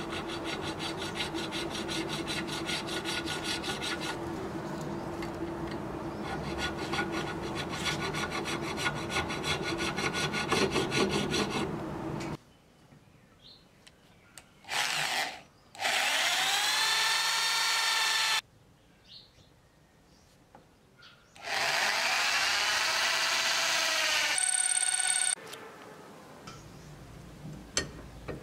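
A hand file rasping back and forth over a brass guard for about twelve seconds. After a pause, an electric drill bores into a hardwood block in two runs of about three seconds each, its whine rising in pitch as it spins up and then holding steady.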